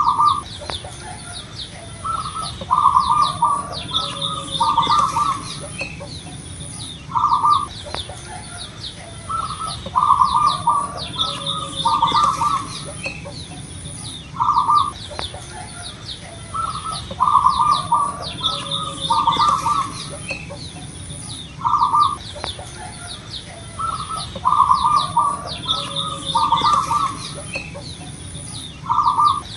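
Zebra doves (perkutut) cooing: the same rolling coo phrase, a single note followed by quick runs of notes, repeats about every seven seconds. Thin high chirps from smaller birds and a steady pulsing high insect-like whine carry on underneath.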